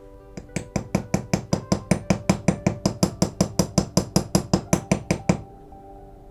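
Small hammer tapping a bent toy-car window frame straight, about six quick, even blows a second that stop shortly before the end.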